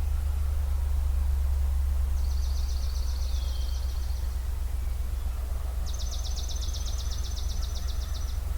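A small songbird sings two fast, even, high trills of repeated notes, the first ending in a short downward slur and the second a couple of seconds later. Both sit over a steady low rumble.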